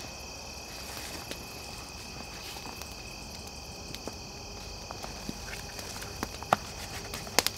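A steady, high-pitched chorus of insects calling in the woods, with a few sharp clicks over it, the loudest near the end.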